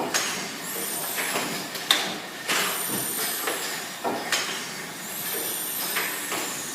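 Worthington Simpson triple-expansion inverted vertical steam pumping engine running slowly. It makes sharp clicks and a high hiss of steam that rises and falls, repeating about every two and a half seconds.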